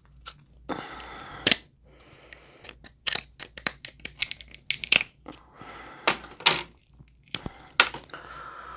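Crab leg shells being cracked and pulled apart by hand: repeated sharp snaps and crackling of hard shell, with tearing as pieces come apart.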